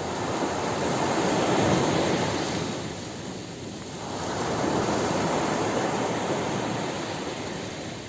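Ocean surf on a beach: two waves break and wash in, one swelling up about two seconds in and the next about five seconds in, with a lull between them.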